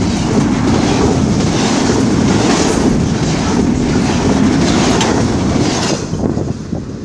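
Railroad cars rolling past at close range, their wheels clattering over the rail joints in a rhythmic clickety-clack about once a second. The noise drops off about six seconds in as the train passes.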